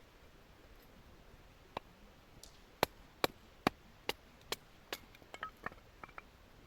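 Batoning firewood: a baton is struck against the back of a blade to split the wood. It gives sharp knocks, about six in an even rhythm of roughly two and a half per second, followed by a few lighter, quicker taps.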